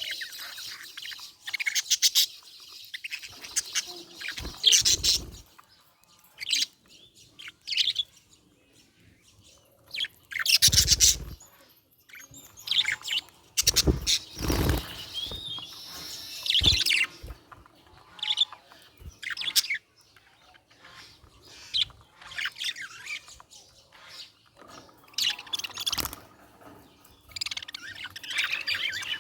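Budgerigar chirping and chattering in irregular high bursts, with pauses between. A few dull knocks sound among the chirps, loudest about eleven seconds in.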